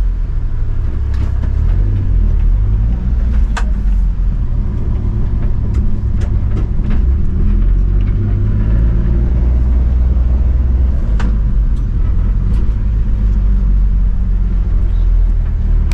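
1995 Mitsubishi Minicab kei truck driving, its 660cc three-cylinder engine running with a steady low rumble, with a few sharp knocks and rattles from the truck.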